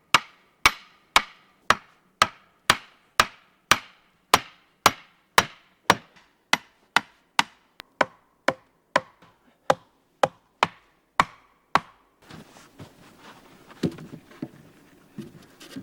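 Steady hammer blows driving a wooden post into the ground, about two strikes a second, some twenty in a row, growing somewhat weaker before they stop about twelve seconds in. After that, quieter rustling and a few faint knocks.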